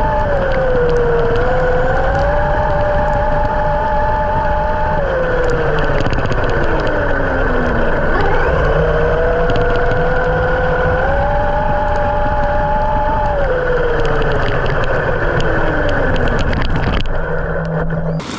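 Traxxas X-Maxx 8S brushless RC monster truck's electric motor whining under throttle, its pitch holding, rising and twice sliding down as it slows, over a rough low rumble. The whine stops about a second before the end.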